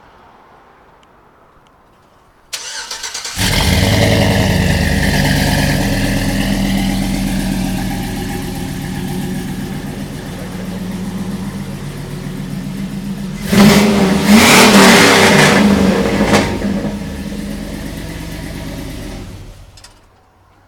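2005 Chevy Avalanche V8 with headers and an aftermarket exhaust: the starter cranks briefly and the engine fires, idling fast at first and settling down. It is revved in a few quick blips about two-thirds of the way through, then idles again and is shut off near the end.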